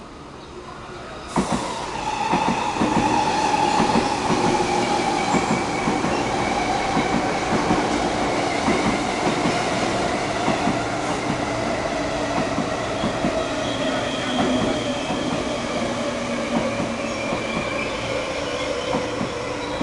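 An MTR East Rail electric multiple-unit train rolls into the platform, rising suddenly to a loud rumble of wheels on rail about a second in, with repeated clicks over the rail joints. A whine falls slowly in pitch throughout as the train slows.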